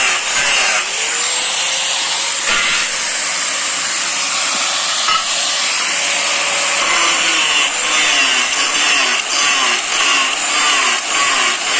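Angle grinder running steadily and grinding steel, with a high motor whine and a hissing grinding noise, during repair of wheat thresher blades.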